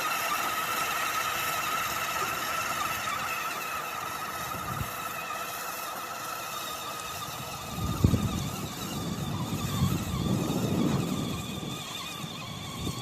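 Motocross bike's motor running with a steady high whine that drifts slightly in pitch; from about eight seconds in, low rumbling swells join it.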